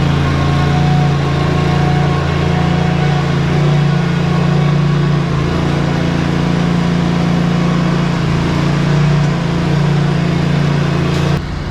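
Ready-mix concrete truck's engine running steadily with a low, even hum, the drop-off in level coming sharply near the end.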